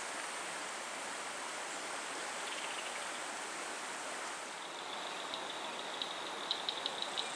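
Steady rushing of the Frio River's flowing water. About two-thirds through, a thin, high steady chirping starts, turning into rapid ticks near the end.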